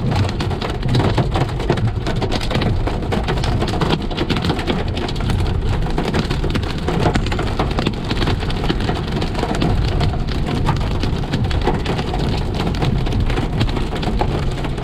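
Heavy rain pelting a car, a dense patter of drops over a steady low rumble of the vehicle underneath.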